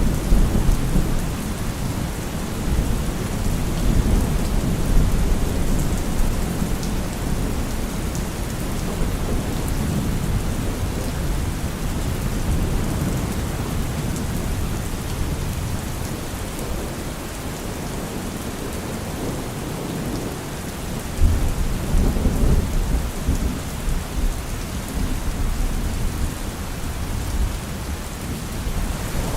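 Steady rain falling, an even hiss, under low rolling thunder that swells near the start and rises suddenly again about two-thirds of the way through.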